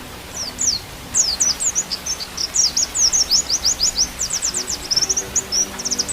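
White-eye (pleci) song: a fast chattering run of short, high, downward-slurred chirps that begins just after the start and grows denser, over faint background music with steady low tones.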